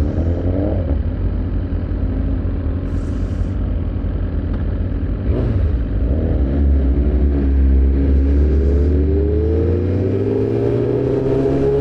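Sport motorcycle engines running at road speed in a group ride. About two-thirds of the way in, one accelerates, its pitch rising steadily and then holding.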